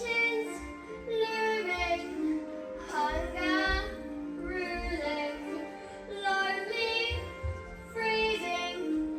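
Young children singing a song together over musical accompaniment, in phrases of a second or two.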